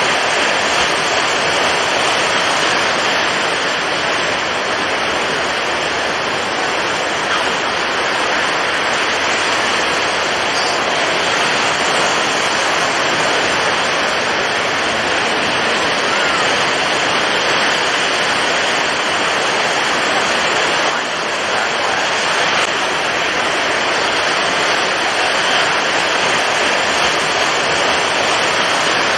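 Storm at sea: strong wind and breaking waves making a dense, steady rushing noise, with only a slight dip in intensity about two-thirds of the way through.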